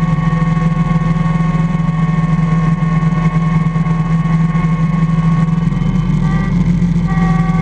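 IH Cub Cadet 147 garden tractor running steadily while plowing snow: a strong low engine drone with a steady higher whine over it. The whine dips briefly about six seconds in, then comes back.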